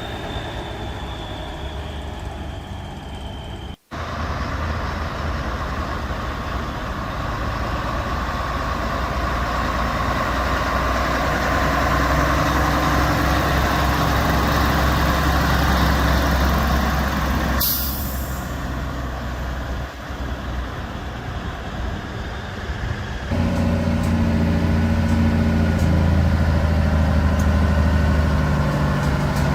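Heavy diesel truck engines running in a string of short clips, with the engine note changing at each cut. A short, sharp air-brake hiss comes about eighteen seconds in.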